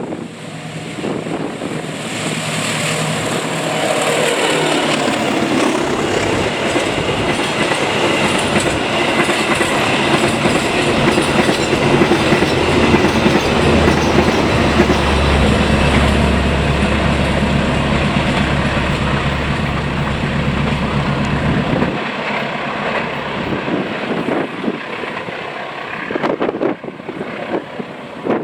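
Long-distance passenger train passing at speed, its wheels clattering over the rail joints. It builds up a couple of seconds in, is loudest in the middle with a deep low hum under the clatter, and eases off over the last several seconds.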